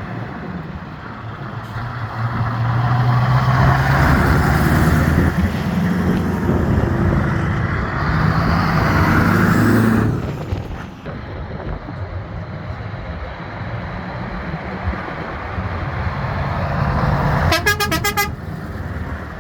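Classic truck engines running, loudest for several seconds as one passes close, then settling to a steadier engine sound. A short horn toot about a second long near the end.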